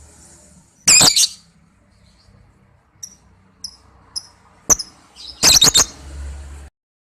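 Lovebird giving loud, shrill, high-pitched calls: a burst about a second in, four short thin chirps, then a quick run of loud calls near the end that cuts off abruptly. A lure call meant to make other lovebirds answer.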